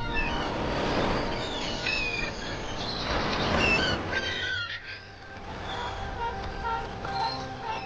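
Birds chirping over a steady rushing noise. The rushing fades about halfway through, leaving the chirps and a short repeated note, about two a second.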